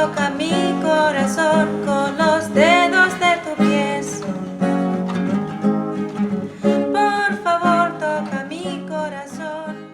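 Acoustic guitar strumming under a woman singing long, wavering notes in a slow love song, fading out near the end.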